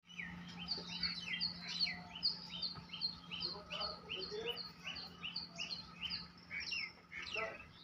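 Small birds chirping in a quick run of short, falling notes, about three a second, over a steady low hum.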